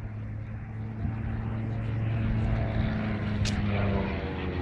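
Light piston-engined propeller aircraft flying low past the crowd, its engine note steady. From about three and a half seconds a second set of engine tones falls in pitch as an aircraft passes by.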